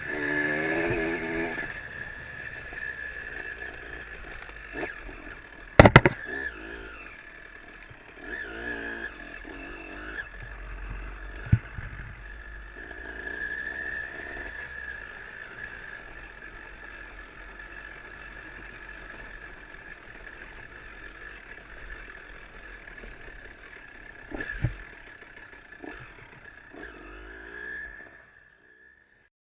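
Trail motorcycle engine running, its pitch rising a few times as it revs, with a steady high whine and several sharp knocks and clatters, the loudest about six seconds in. The sound cuts off near the end.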